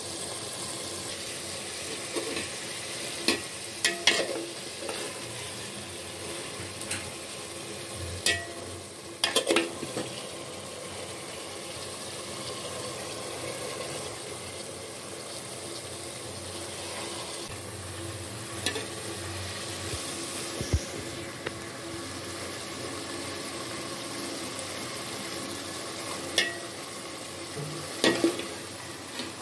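Beef sizzling in oil in a metal pot while a spoon stirs it, with a steady frying hiss. Scattered knocks of the spoon against the pot come in clusters, around four seconds in, around nine seconds in and near the end.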